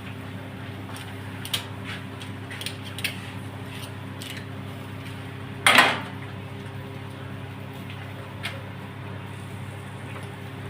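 Light clinks and knocks of kitchen utensils and dishware being handled over a steady low hum, with one louder clatter about six seconds in.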